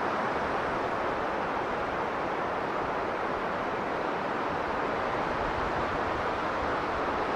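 Strong blizzard wind blowing steadily, an even rushing noise with no single gust standing out.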